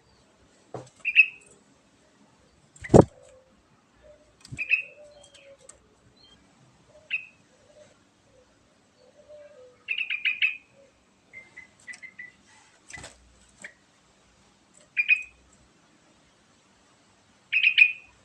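Yellow-vented bulbul giving short, bright chirped phrases every couple of seconds, with a quick run of notes about ten seconds in. Two sharp clicks, about three seconds in and again near thirteen seconds, are as loud as the bird.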